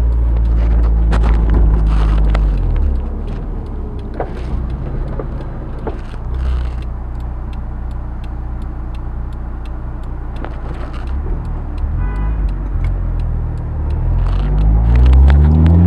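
Honda S2000's four-cylinder engine through a Milltek dual exhaust, heard from inside the cabin. The note holds steady, drops and quietens about three seconds in as the throttle comes off, then climbs in pitch and grows louder over the last few seconds as the car accelerates.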